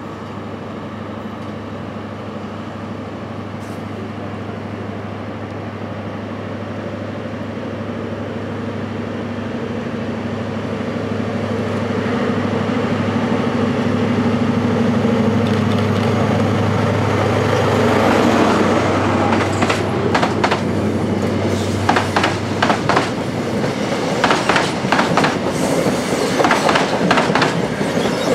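HST (Class 43) diesel power car running under power as the train approaches and passes close by, its steady engine hum growing louder for the first eighteen seconds or so. After that the Mark 3 coaches roll past with rapid, uneven clicks of wheels over rail joints.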